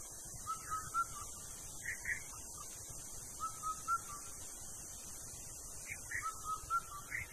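A bird calling in clear whistled notes. A quick run of three lower notes is followed by a pair of higher notes, and the phrase repeats about every three seconds over a steady high hiss.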